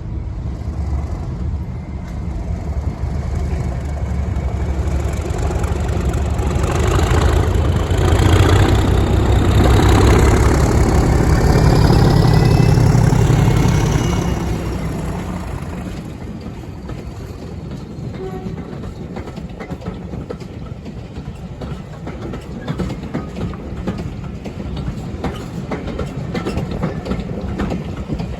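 English Electric Class 37 diesel locomotive passing under hard power, its V12 engine rumble building to its loudest about eight to fourteen seconds in, then fading as it goes away. High whistling tones slide upward over the engine at its loudest, and wheels click over the rail joints as the train recedes.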